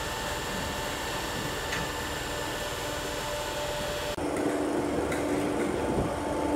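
Steady hum of a stationary electric train standing with its doors open at an underground platform. About four seconds in, it changes abruptly to a louder, closer hum with a steady low tone.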